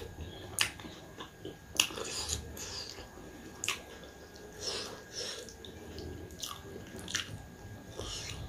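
A person chewing food with the mouth close to the microphone: wet smacking chews broken by a few sharp smacks at irregular intervals.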